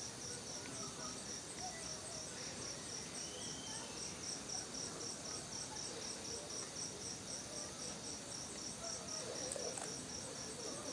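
Cricket chirping steadily, high-pitched and evenly spaced at about three chirps a second, over a faint background hiss.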